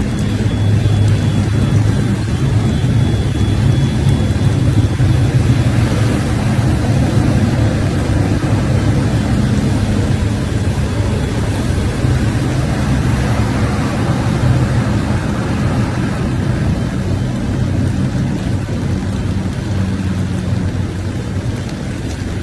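Motor vehicle engine running steadily, a low hum under a constant rushing noise.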